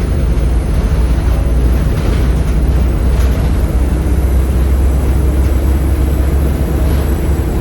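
Volvo B7RLE bus's 7.3-litre Volvo D7C diesel engine running steadily, a loud deep drone.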